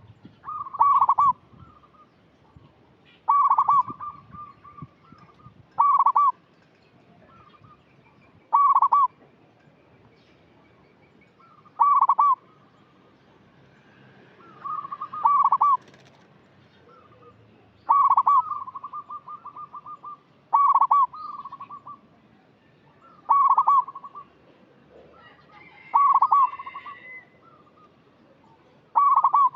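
Zebra dove (perkutut) singing: about eleven cooing phrases, repeated every two to three seconds. Some phrases end in a rapid stuttering trill.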